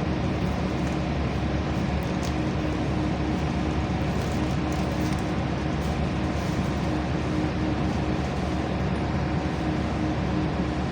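LiAZ-5292.65 city bus under way, heard from inside the cabin: a steady engine drone and road noise with a constant low hum, and a few faint rattles about two and five seconds in.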